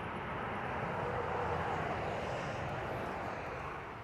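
A vehicle passing by: a rushing noise that swells to a peak, holds, then fades away near the end.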